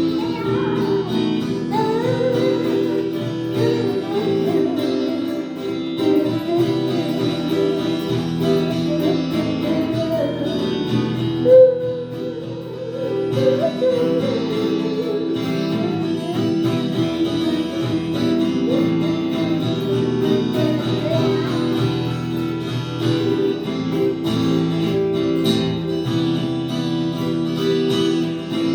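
Music led by strummed acoustic guitar, playing steadily throughout.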